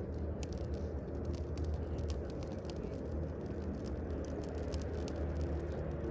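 Fire burning with a steady low rumble and frequent, irregular small crackles and pops.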